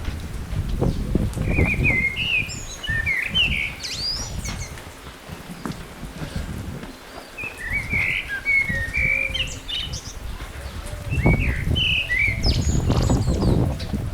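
Small birds chirping in three quick, twittering runs of short high notes, with a low rustling rumble at the start and again near the end.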